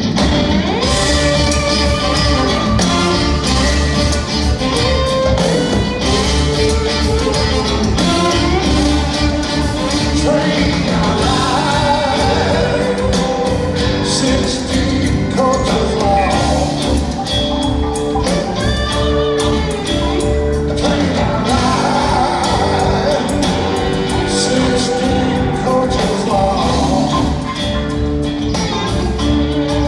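Live band playing a rock-and-roll song at full volume, with a voice singing over guitar, bass and drums.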